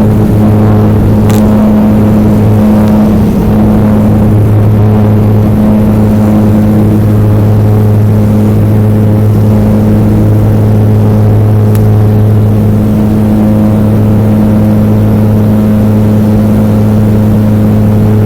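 Cabin drone of a BAE Jetstream 32's twin Garrett TPE331 turboprops and propellers: a loud, steady hum with a strong low tone and its overtones, unchanging in pitch.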